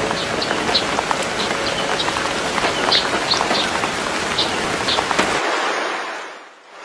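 Rain falling: a steady patter with scattered sharper drop ticks, fading out near the end.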